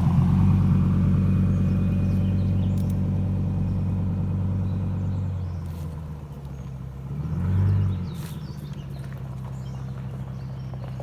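V8 engine of a 2005 Ford F-250 Super Duty running with a steady low hum. It fades gradually, swells briefly about two-thirds of the way in, then settles lower.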